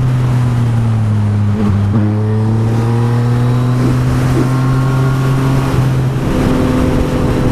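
Yamaha MT-09 SP's three-cylinder engine with Akrapovic exhaust, running steadily on the move, with rushing wind. From about two seconds in, a higher engine tone rises slowly, then levels off about six seconds in.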